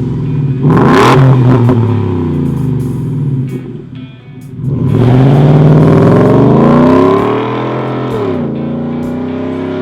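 Ford F-150's 5.0-litre V8 revving through an X-Force 3-inch stainless cat-back exhaust with Varex mufflers. A short blip comes near the start and the sound dips around four seconds in. A longer rev climbs from about five seconds and drops back near eight seconds, settling to a steadier idle.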